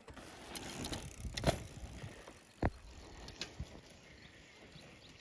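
A bicycle rolling over rough ground, with a rattling haze and a few sharp knocks and clatters.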